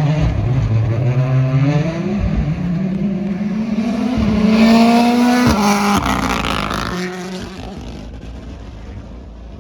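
Rally car accelerating hard, its engine pitch rising and dropping at gear changes, the biggest drop about five and a half seconds in, then fading as the car moves away.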